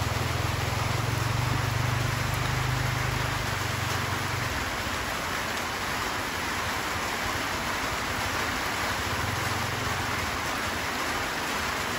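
Steady rain falling. A small motorcycle engine hums low under it for the first four seconds or so, then drops away, with a faint low hum again near the end.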